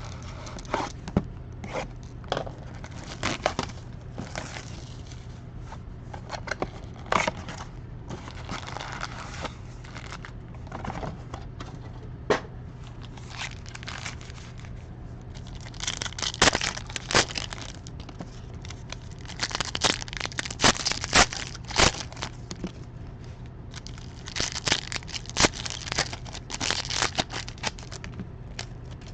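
Plastic wrapping on a baseball card hobby box being torn open and crumpled, in irregular crinkling bursts that come thicker in the second half, over a steady low hum.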